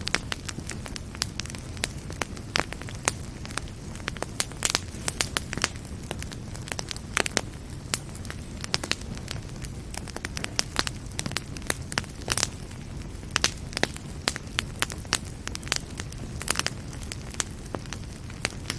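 Wood fire burning in a fireplace, with a steady low rumble of flame and frequent irregular crackles and pops.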